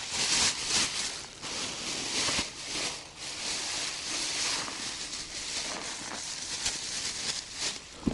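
Hands breaking up and mixing groundbait just out of the freezer, with an uneven rustling and crumbling that comes in irregular pushes.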